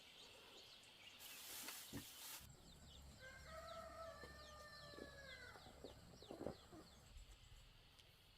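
A rooster crows once, faintly: one long call starting about three seconds in and falling away at the end, with short high chirps around it. A brief hiss comes before it.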